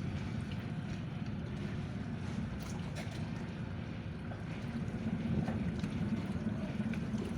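Car ferry's engines running with a steady low drone, with wind buffeting the microphone.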